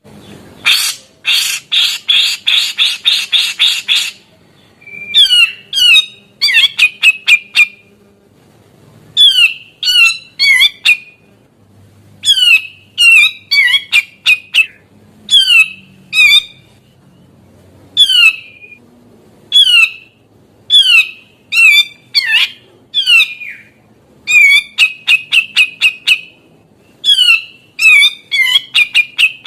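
A cucak jenggot (grey-cheeked bulbul) calling. It opens with a run of about ten harsh rasping notes, then gives repeated bursts of quick, sharply sweeping chirps in groups every couple of seconds.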